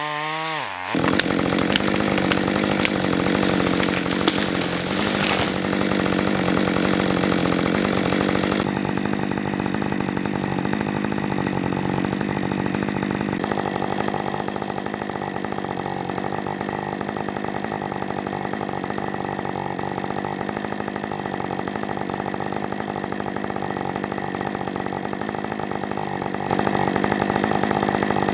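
Chainsaw running at high revs, cutting through timber at a steady pitch. The sound changes abruptly a few times.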